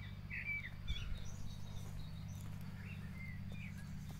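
Birds giving short chirps, a few near the start and a few more about three seconds in, over a steady low hum.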